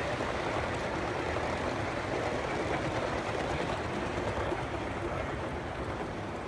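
Model trains running on a large layout: a steady rumbling hum mixed with the noise of the room.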